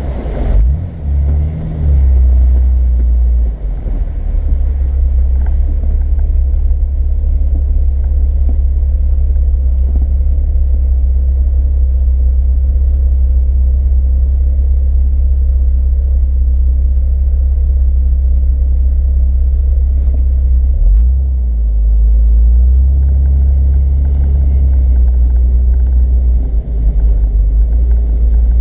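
Off-road vehicle driving along a trail: a steady, loud low rumble of engine and drivetrain, with a few brief dips.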